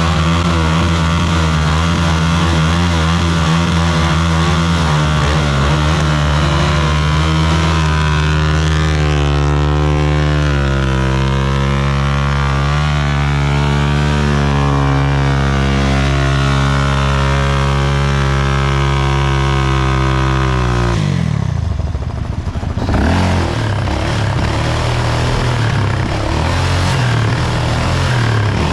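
Motorcycle engine running close by at a steady, slightly wavering pitch; about 21 seconds in its pitch drops sharply and a rougher, uneven engine sound takes over.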